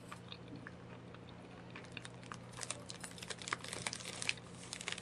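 A person chewing a bite of a soft-baked chocolate fudge bar: faint, irregular small clicks, coming more often from about two seconds in.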